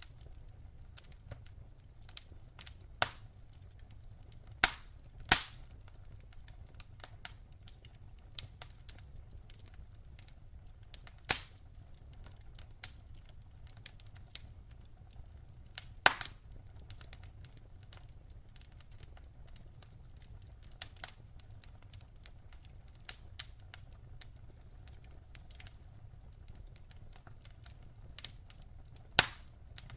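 Campfire crackling: irregular sharp snaps and pops of burning wood, with a few louder pops standing out, over a faint low rumble of the fire.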